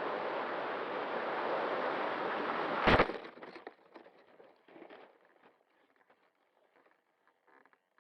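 Small electric RC airplane in flight, a steady rushing of motor and air that builds slightly, then a sudden loud crash about three seconds in as it hits. Faint scattered rustles and clicks follow, then near silence.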